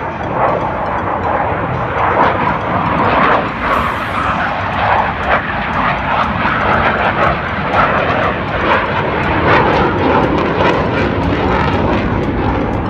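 Loud, steady jet aircraft engine noise, rising at the start, with a rapid crackle through it.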